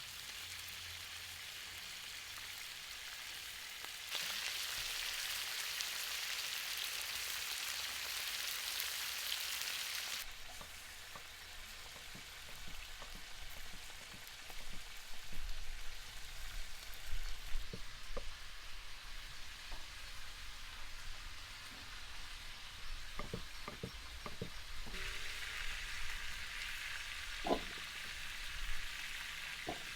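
Food sizzling as it fries, a steady hiss that is louder from about four to ten seconds in and again near the end, changing abruptly between shots. A few short knocks come in the second half.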